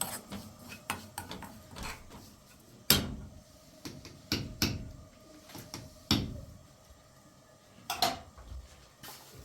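Household clatter: a handful of sharp knocks and bangs, the loudest about three seconds in and others near the middle and toward the end, with quieter handling noise between them.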